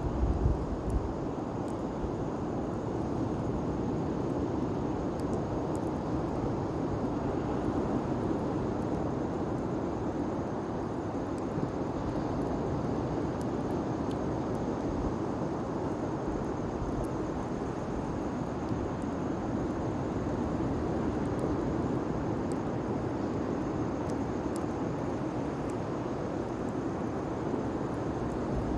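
Large bonfire burning: a steady rushing roar of flames with faint, scattered crackles and pops throughout.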